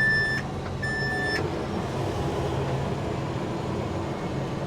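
Two beeps from the self-propelled sprayer's in-cab alarm, about a second apart, which then stop; it is the warning for off-target spray pressure as the tank runs out of spray. Underneath is the steady drone of the Cummins diesel engine heard inside the cab.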